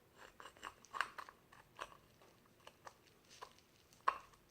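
Ceramic shard clicking and scraping against the broken edge of a pottery vessel as it is test-fitted, a scatter of small clicks with two sharper knocks, about a second in and near the end.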